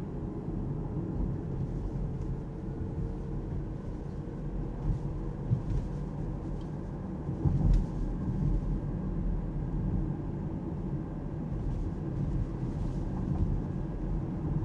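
Alpine A390 electric car driving, heard from inside the cabin: steady low road and tyre rumble with a faint whine rising slightly in pitch at first, and a few short thumps, the loudest about eight seconds in.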